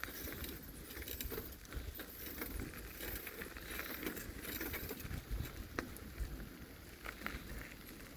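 Bicycle being ridden: a steady low rumble with scattered light clicks and rattles.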